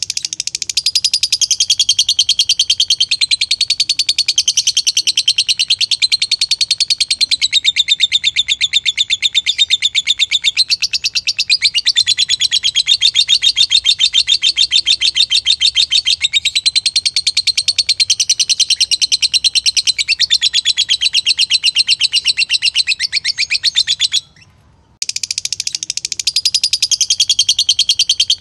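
Lovebird giving a long, unbroken, very rapid chattering trill. Its pitch wavers up and down throughout. It breaks off for under a second near the end, then starts again.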